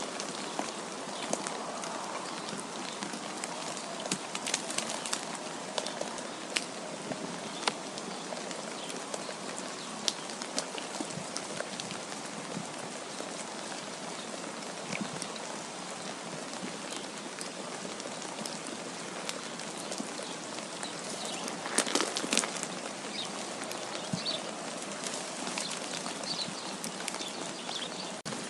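Steady hiss of wind with many small ticks and patters of falling precipitation, swelling briefly a little over two-thirds of the way through. A few faint high chirps come near the end.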